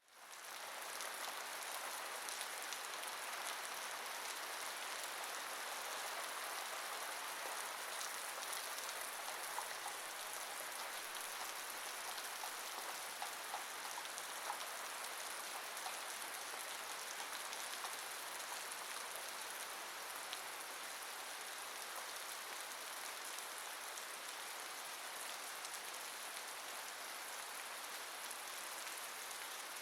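Steady rain falling: an even hiss with scattered drop ticks, fading in over the first second.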